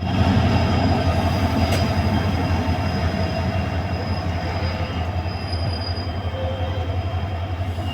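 A train running, a steady loud rumble with thin high whining tones riding over it, like wheels squealing on the rails, and a single sharp click a little under two seconds in; the sound eases off slowly.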